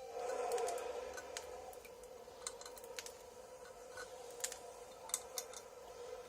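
Scattered light clicks and taps at irregular intervals over a steady hum.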